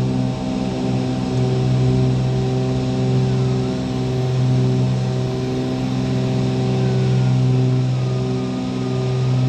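Twin piston engines and propellers of a Cessna 310 running steadily at high power, heard from inside the cabin, with a slow rise and fall in loudness every few seconds.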